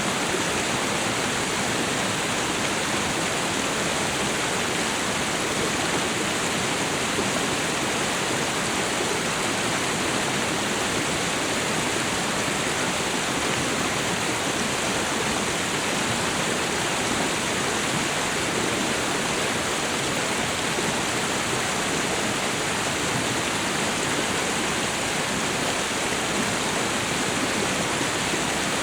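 Waterfall and river water rushing in a steady, unbroken roar of white noise.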